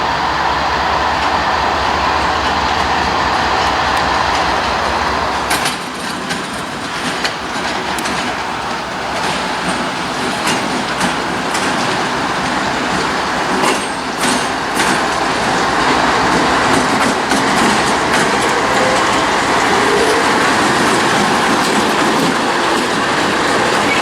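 Norfolk Southern freight train cars rolling along the track with a steady rumble. Wheels clack sharply and irregularly over rail joints for several seconds.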